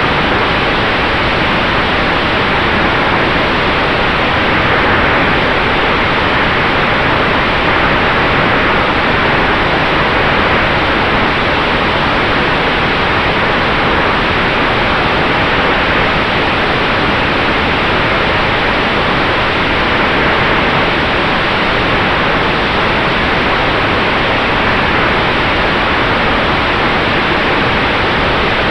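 Steady rushing noise of airflow and the propeller in the cockpit of a Sonex Xenos electric airplane in flight, with a faint, even whine from the electric drive.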